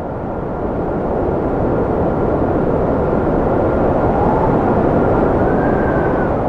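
Strong cold wind blowing, swelling over the first second or two, with a thin steady whistle and a couple of howling gusts that rise and fall in pitch toward the end.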